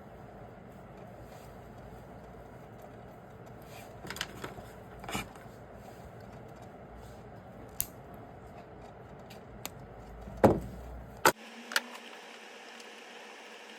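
Scattered sharp clicks and knocks of small parts and tools being handled on a workbench, over a steady background hiss. The loudest knock comes about ten and a half seconds in, followed by two more clicks.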